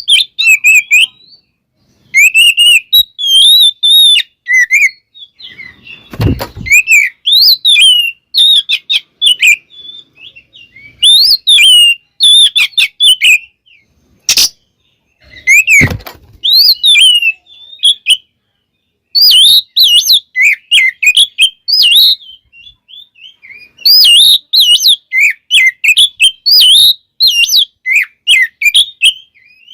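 Oriental magpie-robin (kacer) singing loudly in rapid bursts of varied whistles and chirps, its song full of mixed phrases. The bursts are broken by short pauses. A few sharp clicks or knocks come in about a third and about halfway through.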